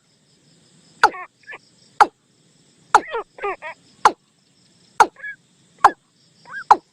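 Bird lure-call playback of the bird called nok tum: sharp, quick downward-sweeping notes about once a second, interleaved with short arched whistles and falling, chattering call notes.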